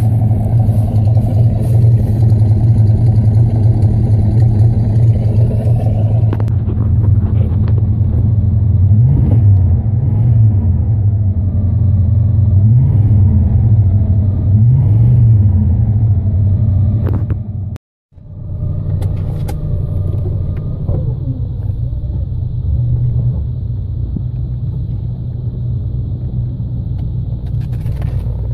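Holden 253 (4.2 L) V8 of a VC SLE Commodore running, with a few light rises and falls in engine speed partway through. After a brief break, the engine is heard from inside the cabin, running a little quieter and steady.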